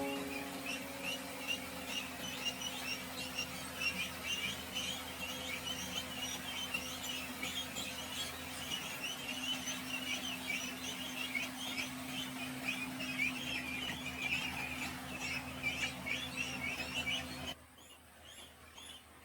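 A flock of Muscovy ducks peeping, a dense stream of many short, high peeps overlapping, over a steady low hum. It all cuts off suddenly near the end.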